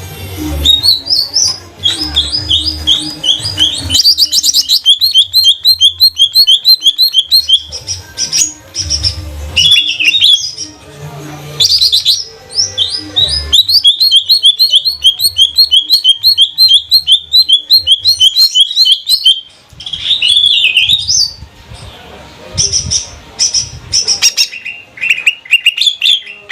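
Cucak ijo (green leafbird) singing energetically in long, fast runs of repeated high chirping notes, with a few brief breaks between phrases. There is an intermittent low rumble underneath.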